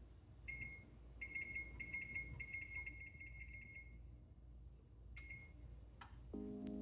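Electronic beeps from a household appliance's control panel: one short beep, then a quick run of short beeps lasting a couple of seconds, then another single beep. A click follows, and music comes in near the end.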